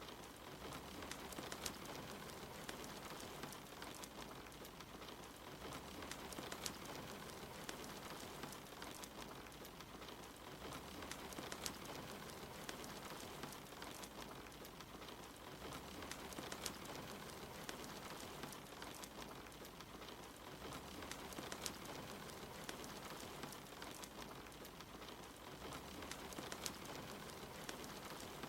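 Steady soft rain mixed with a crackling wood fire, with frequent short sharp pops of the burning logs scattered through it.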